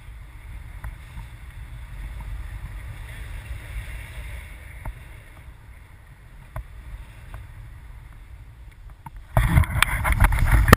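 Wind buffeting the microphone as a low rumble, with a few light clicks. About nine seconds in, a much louder gust hits and crackles over everything.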